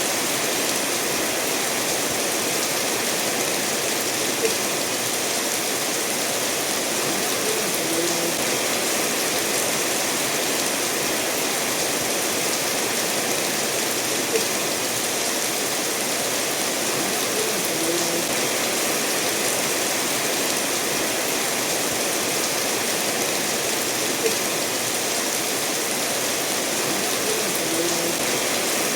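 Steady rain falling, with a stream flowing over stones under it. A slightly louder drop plinks every ten seconds or so.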